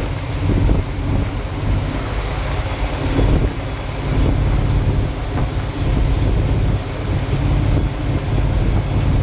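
A truck driving, heard from inside: a steady low engine and road rumble with wind noise.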